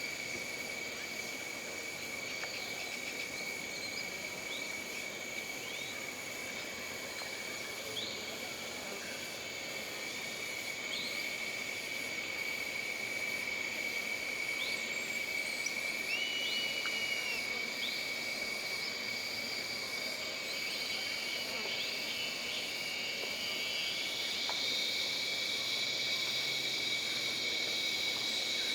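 Jungle ambience: a steady, high-pitched insect drone, with a second, higher insect chorus that swells about four-fifths of the way through. Short bird calls come every few seconds.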